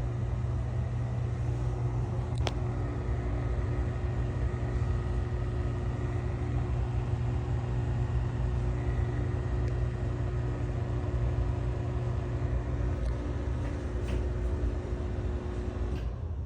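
Older NuTone exhaust fan running with a steady whir over a low hum, with the rattle that is typical of these models. There is a single click about two and a half seconds in, and the whir cuts off near the end.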